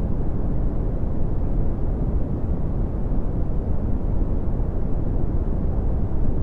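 Steady red (Brownian) noise: an even, deep rumbling hiss, strongest in the low bass and falling away toward the treble.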